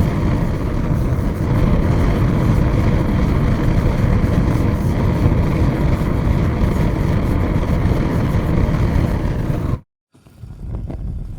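Large fire burning with a dense, steady roar that cuts off abruptly near the end. After a brief silence a quieter fire begins, with faint crackles.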